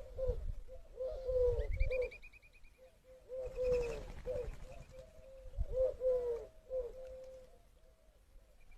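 Pigeons or doves cooing, short repeated coos one after another, with a quick run of high chirps from another bird about two seconds in.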